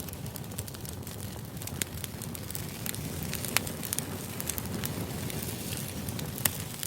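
Crackling fire ambience used as background noise: a steady low rumble with irregular sharp pops and crackles.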